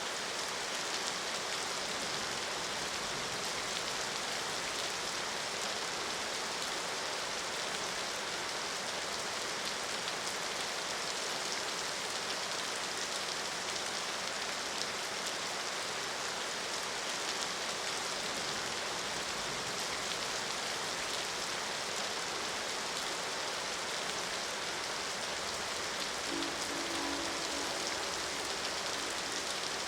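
Steady rain falling, with a faint distant train horn sounding briefly as a chord of held tones near the end.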